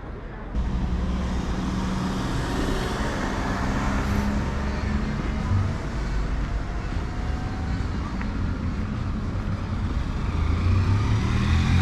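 City street traffic: motor vehicles running past with a steady engine hum and road noise, louder from about half a second in.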